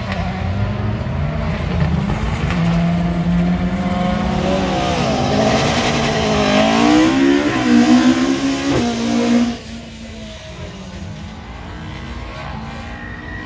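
Rally car engine revving hard, its pitch climbing and falling repeatedly through gear changes as the car runs close by. About nine and a half seconds in, the sound drops suddenly to a quieter, more distant engine note, which starts rising again near the end.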